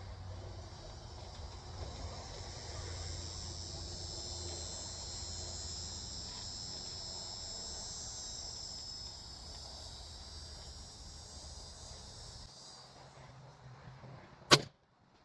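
Steady buzz of insects over a low rumble, then a single sharp rifle shot near the end, after which the sound drops away abruptly.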